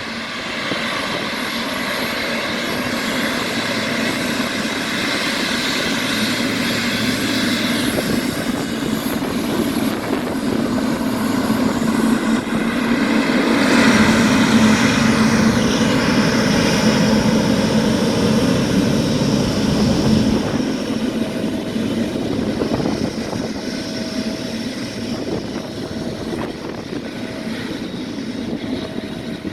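Boeing 777 freighter's twin GE90 turbofan engines whining and rumbling as the jet taxis past at speed, building to its loudest about halfway through and then fading as it moves away.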